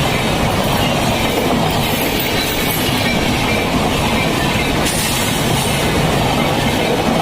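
LHB express coaches running on the rails, a loud, steady rumble of wheels and track noise with no clear beat.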